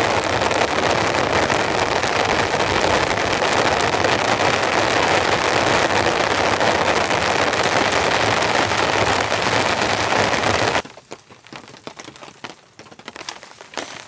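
Heavy rain falling steadily in a dense hiss that cuts off suddenly about eleven seconds in, leaving only scattered faint taps.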